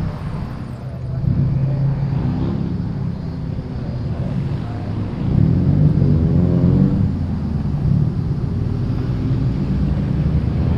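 Modified cars' engines and exhausts running as they pull away one after another, revs climbing about a second in and again, louder, about five seconds in.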